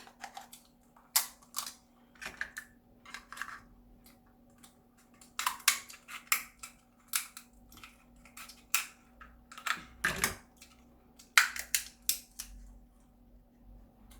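Steamed lobster shell being cracked and picked apart by hand: an irregular run of sharp cracks and clicks, some louder snaps among them.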